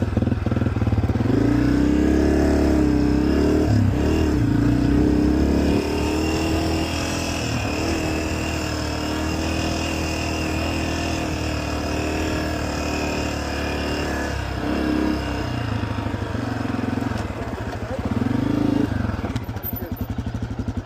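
Dirt bike engine running, its revs rising and falling; it is louder for the first six seconds, settles lower through the middle and revs up again near the end.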